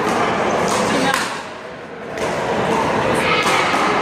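Unintelligible chatter of people at a one-wall handball game, with a few sharp slaps and thuds of the ball being hit against the hand and wall.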